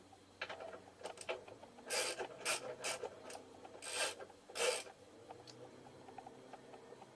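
Socket ratchet run up on a rear shock mounting bolt, with a few light clicks and then five short rasping strokes over a couple of seconds.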